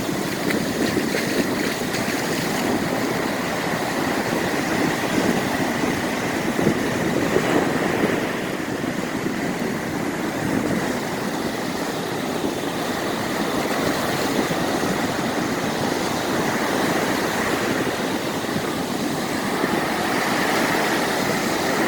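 Rough ocean surf: a continuous rush of heavy waves breaking and washing in, with strong onshore wind.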